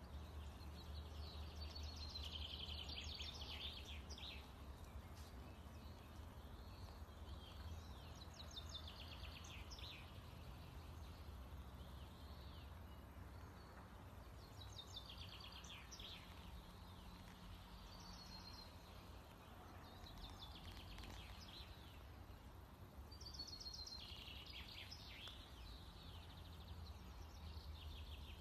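Faint songbird singing short chirpy phrases every few seconds over a low, steady outdoor rumble.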